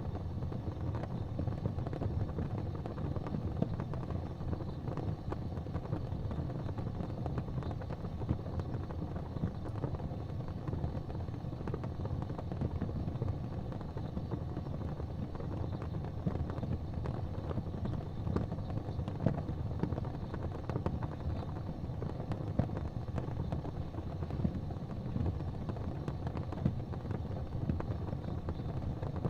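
Fire burning in a fireplace: a steady low rumble with many small, irregular crackles.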